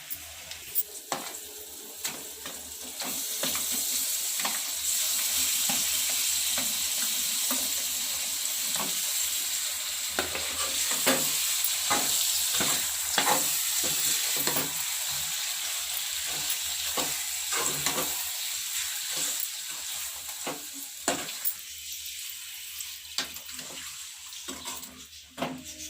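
Food sizzling as it fries in hot oil in a pan for chicken gravy, with a spoon stirring and scraping against the pan in repeated short strokes. The sizzle swells about three seconds in.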